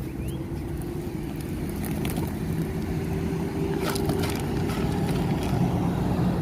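A motor engine running steadily with a low hum, growing slightly louder, with a few brief clicks about two and four seconds in.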